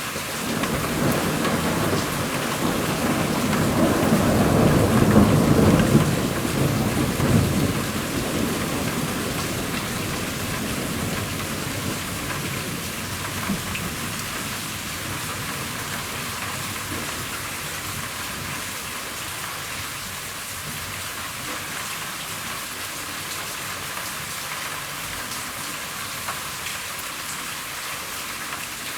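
Rain falling steadily on a roof, with a long roll of thunder that swells over the first few seconds, is loudest around five to seven seconds in, and dies away by about twelve seconds.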